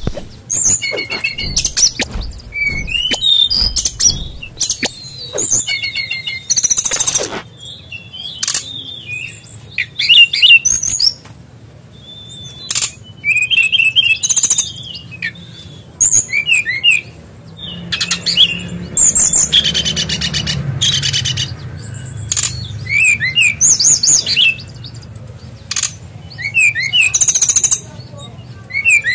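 SRDC (sikatan rimba dada coklat) songbird singing busily, phrase after phrase of short whistles and chatters with brief pauses between, a song filled in with mimicked kingfisher calls. A few harsher, raspy phrases stand out, one about seven seconds in and another around two-thirds of the way through.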